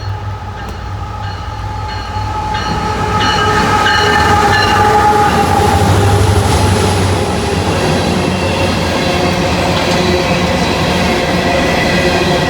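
Loaded coal train arriving and passing close by. Its diesel locomotives rumble loudest about halfway through, with several steady high tones ringing over the first few seconds. The sound then settles into the continuous rolling noise of the cars on the rails.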